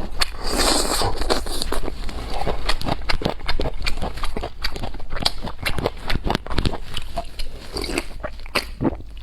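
Close-miked person chewing crunchy food, with many rapid irregular crunches and wet mouth smacks, and a brief noisy rush about half a second in.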